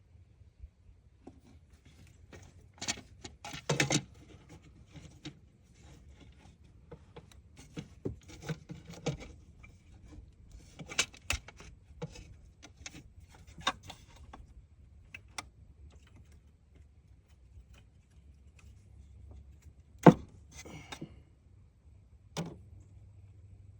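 Scattered clicks, clinks and knocks of tools and parts being handled, with one sharp, louder knock about twenty seconds in.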